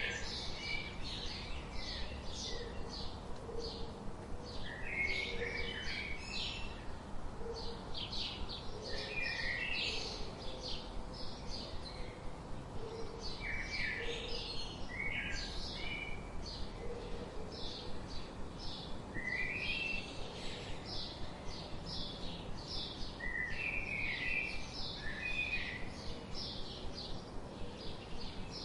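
Birds chirping: a steady stream of quick, high repeated chirps, with lower slurred phrases breaking in every few seconds and faint low notes underneath.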